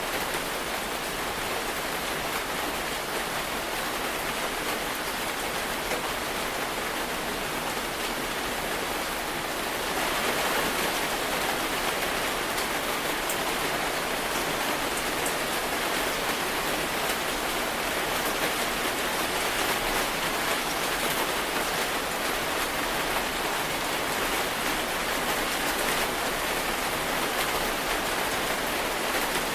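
Steady rain falling, an even hiss of drops, which grows a little louder about ten seconds in.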